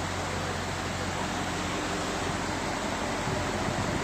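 Steady rushing background noise with a faint low hum and no distinct events.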